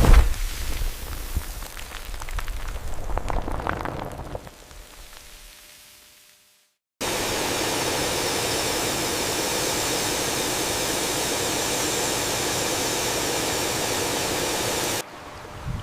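A rushing hiss surges at the start and fades out over about six seconds. After a brief gap, a steady, even hiss comes in abruptly, holds at one level and cuts off sharply near the end.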